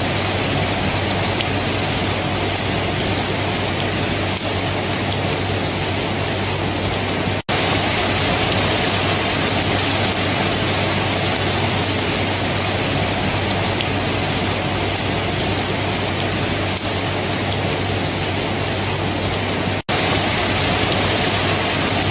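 Steady, heavy rainfall, a dense even hiss, with a low steady rumble under it. The sound cuts out for an instant twice, about seven seconds in and near the end.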